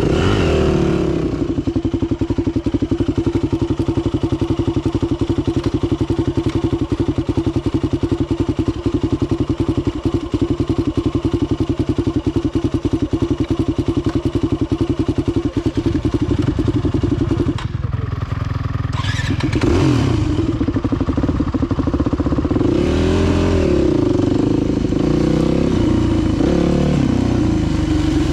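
Dirt bike engine running hard at a steady pitch, then briefly easing off about two-thirds of the way through before picking back up and revving up and down a few times.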